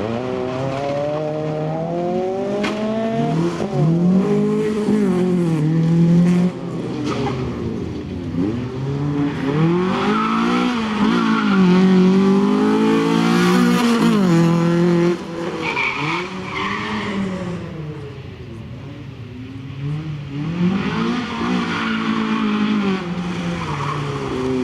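Honda Civic rally car's engine revving hard and falling off again and again as it accelerates, brakes and shifts through a twisty stage. Tyres squeal through the middle stretch, and the engine drops back briefly near the end before pulling again.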